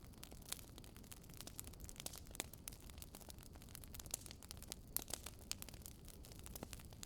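Wood fire crackling in a fireplace: irregular sharp pops and snaps, several a second, over a low steady rumble of burning logs.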